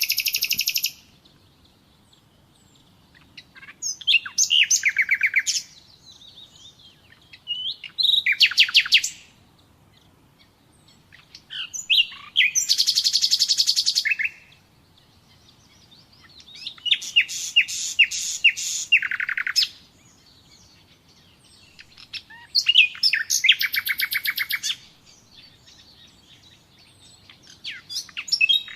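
Common nightingale singing: phrases of rapid, repeated high notes and trills, each lasting a second or two, separated by pauses of about two seconds.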